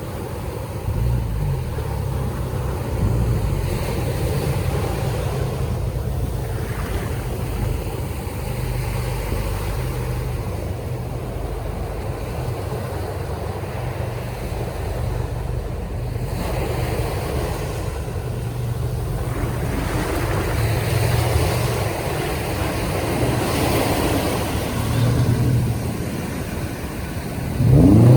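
Boat outboard motors running, a low hum that swells and eases, over breaking surf and wind. Near the end the engines rev up sharply.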